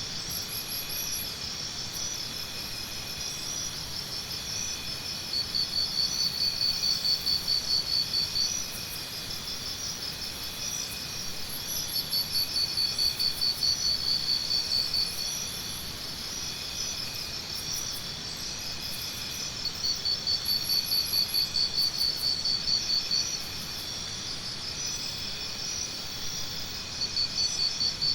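Jungle morning ambience of a dense chorus of chirping insects, several kinds chirring steadily at once. One loud, fast-pulsing chirp swells in for about three seconds roughly every seven seconds and then drops back.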